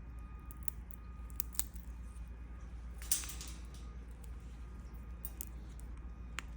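Scattered small sharp clicks and a brief rustle a little after three seconds, from Indian ringneck parakeets nibbling at a piece of food with their beaks, over a low steady hum.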